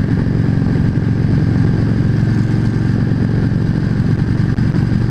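Yamaha V Star 650's air-cooled V-twin engine running steadily at road speed under the rider.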